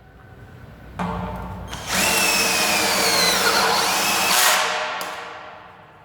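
12 V cordless drill-driver spinning up about a second in, then driving a self-drilling screw into 1.4 mm galvanized box-section steel. The motor's pitch falls as it loads up, and it stops about four and a half seconds in.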